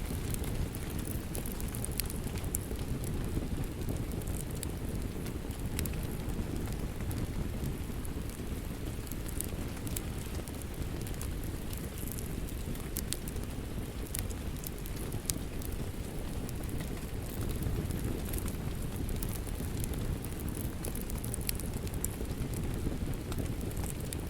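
Wood fire crackling: a steady low rumble of flames with scattered sharp snaps and pops.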